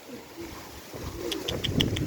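Domestic pigeons cooing, low and murmuring. From about halfway through, a fast, even, high ticking starts, about seven ticks a second.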